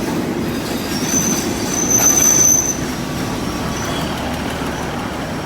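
Passenger train running on the rails with a steady rumble, and a high-pitched wheel squeal about a second in that lasts a second and a half before fading.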